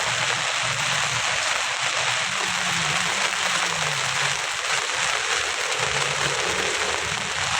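Steady rain falling, an even hiss of rain with faint low hum underneath.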